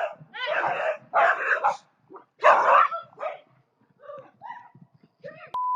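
A dog barking repeatedly in short, loud bursts. A steady electronic beep starts near the end.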